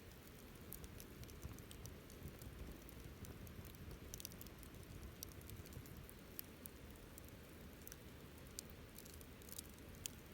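Campfire burning quietly: sparse, irregular sharp crackles and pops over a low steady rumble.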